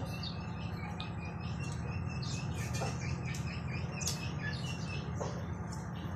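Birds chirping, many short high chirps scattered throughout, over a steady low hum.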